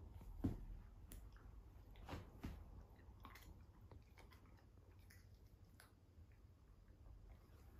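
Faint, irregular crunching and chewing of small dry snack pieces, the loudest crunch about half a second in and softer ones spread over the next few seconds.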